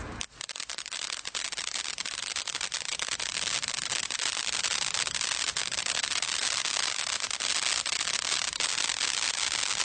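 A consumer firework from a Brothers Pyrotechnics Bonfire Party Box giving off a dense, continuous crackle of rapid small pops. It starts sharply just after the beginning and has no big bangs.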